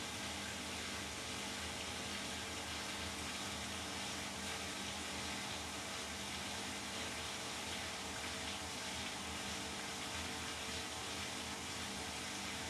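Beko WTK104121W washing machine in its anti-crease phase after the wash: a steady hum with an even hiss, unchanging throughout.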